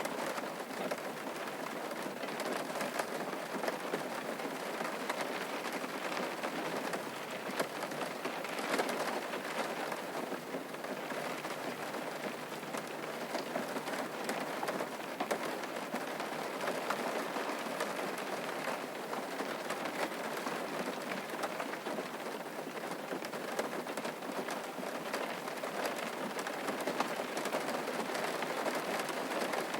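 Steady rain falling on a surface, a dense hiss with many small drop patters.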